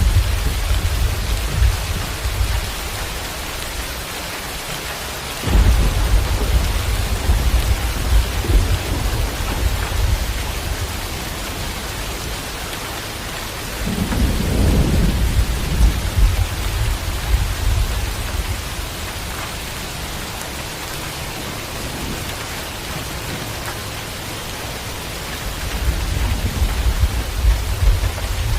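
Steady rain with rolling thunder. A sudden clap about five seconds in rumbles on for several seconds, another rumble comes around the middle, and a third builds near the end.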